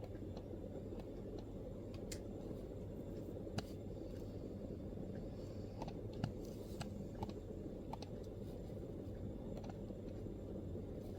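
MacBook keyboard keystrokes: sparse, irregular taps, one here and there with short runs of a few, over a steady low room rumble.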